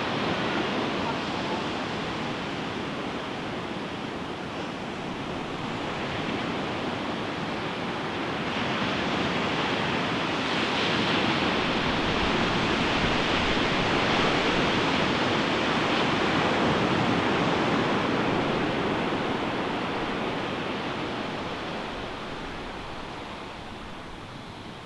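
Ocean surf breaking on a beach: the wash swells about eight seconds in, stays loud for roughly ten seconds, then fades near the end.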